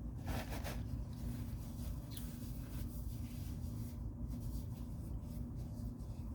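Close-miked eating sounds: irregular soft crackles and mouth clicks of chewing, over a steady low hum.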